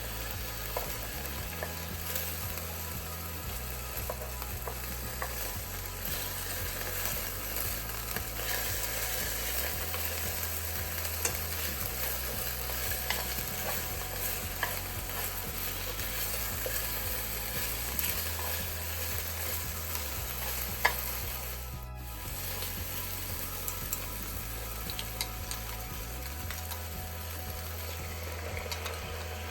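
Food sizzling in a frying pan as it is stirred, a steady hiss with occasional light clicks of the utensil against the pan.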